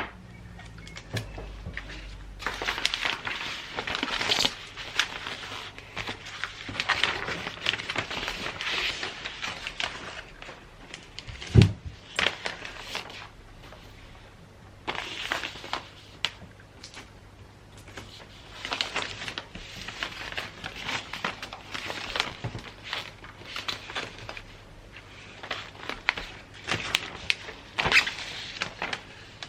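Gift-wrapping paper rustling and crinkling in irregular bursts as it is handled and folded, with small clicks and one sharp knock partway through.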